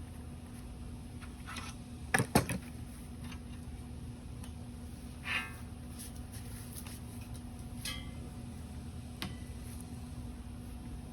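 Steel workpieces being handled and set in place: a couple of sharp knocks about two seconds in, then a few short ringing clinks of metal, over a steady low hum.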